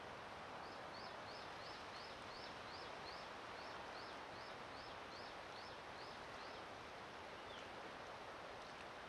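Steady wind noise, with a small songbird repeating a short, high, upslurred note about three times a second for some six seconds, then giving one lower note.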